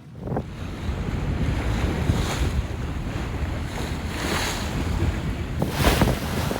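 Wind buffeting the microphone over water rushing and splashing along a sailboat's hull, with a splash of hiss surging about every one and a half to two seconds.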